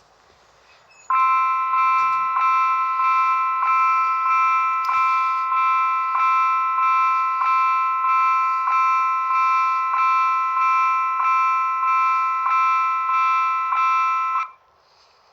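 Level crossing warning bell ringing in even strikes, about one and a half a second, signalling an approaching train; it starts about a second in and cuts off near the end.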